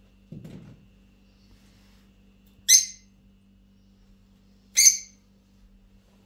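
Two short, high-pitched bird calls about two seconds apart, with a brief soft low sound just before them.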